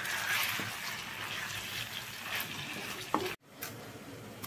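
Food sizzling as it fries in a pan and is stirred, with a few small clicks. The sizzle cuts off abruptly about three and a half seconds in and gives way to a quieter hiss.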